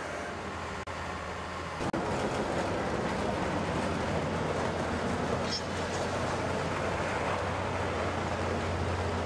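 Heavy machinery running: a steady, dense mechanical noise over a low hum that jumps louder about two seconds in.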